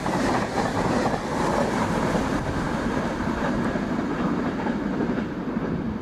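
Inter-city passenger train running past along a station platform: a steady noise of wheels on the rails and running gear, easing slightly near the end.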